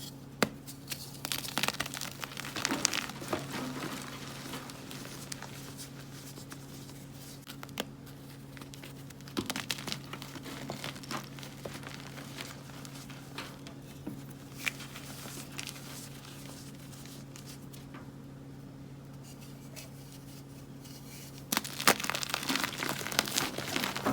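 Blocks of gym chalk crumbling and crunching as they are crushed, in bursts of crackly strokes with quieter pauses between. A faint steady low hum runs underneath.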